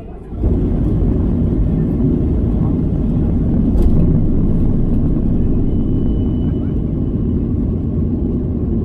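Airliner cabin filled with a loud, steady low rumble that starts suddenly about half a second in: the plane's engine and rolling noise as it heads for the takeoff runway.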